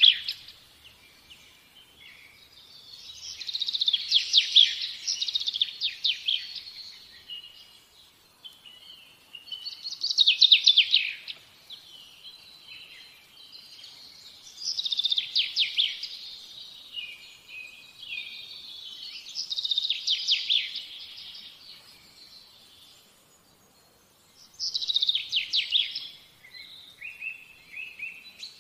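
A songbird singing: a rapid, high trilled phrase about two seconds long, repeated roughly every five seconds, five times over.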